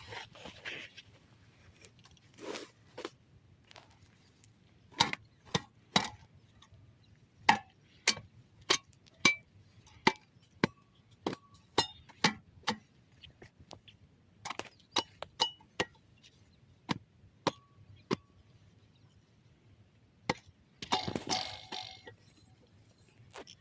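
Irregular sharp clinks and knocks of hard objects, many in quick succession, some ringing briefly like metal struck on metal. A short scraping rustle comes near the end.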